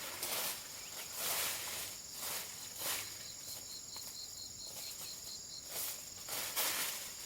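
Repeated rustling swishes, like dry palm leaves or brush being moved, over a steady high insect drone; in the middle a run of quick, even chirps at about four a second.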